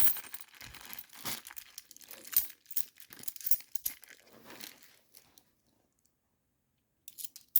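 Plastic coin bag being handled, crinkling and rustling with scattered sharp clicks, stopping about five seconds in; a few short clicks follow near the end.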